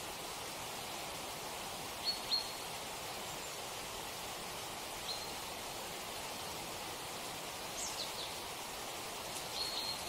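Steady rushing outdoor background noise with a few short, high bird chirps: two close together about two seconds in, one around five seconds, a couple near eight seconds and more near the end.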